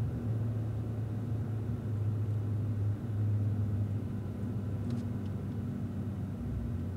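Cadillac ATS-V's twin-turbo V6 running at low, steady revs in fourth gear, heard from inside the car as a steady drone with road noise.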